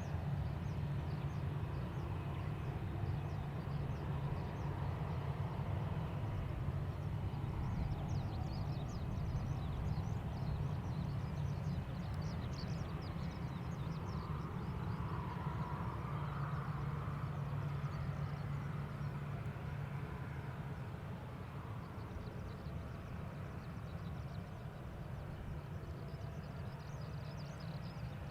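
Boeing 737-800's CFM56 jet engines running at low taxi power: a steady low rumble and hum while the airliner taxis to the runway, with faint light ticks over it.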